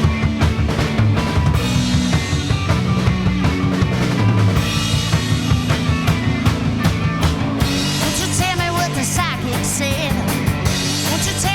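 Rock band playing live, with a drum kit (bass drum and snare) driving a steady beat under the other instruments. About eight seconds in, a higher wavering melodic line comes in over the band.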